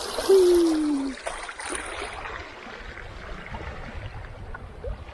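Steady rush of river water running toward a small waterfall, with a man's hummed note sliding down in pitch and ending about a second in.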